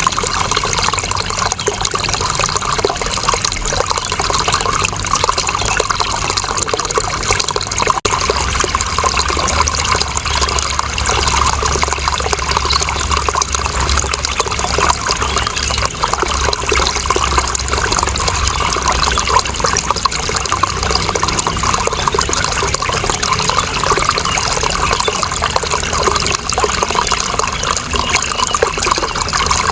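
Running water flowing continuously with a splashing trickle, steady throughout, with a low rumble underneath from about eight seconds in.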